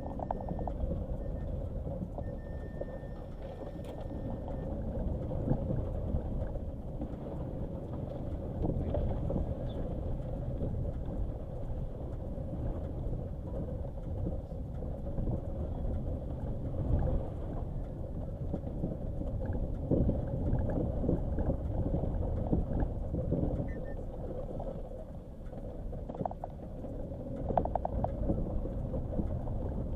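Nissan Qashqai driving slowly over a rough, grassy dirt track: a steady engine and tyre rumble broken by many small irregular knocks and jolts.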